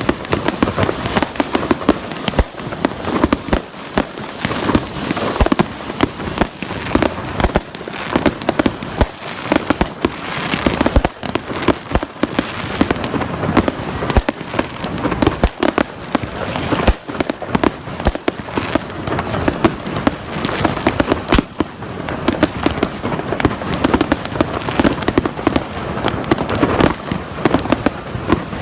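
Fireworks going off continuously: a dense, unbroken run of bangs and crackles.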